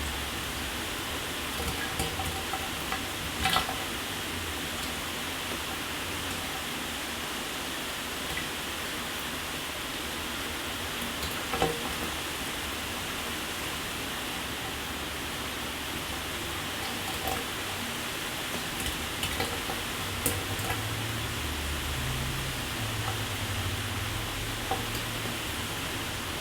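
Shower water spraying and splashing in a steady rush, with scattered sharper drips and splats breaking through, the loudest about three seconds in and again near the middle.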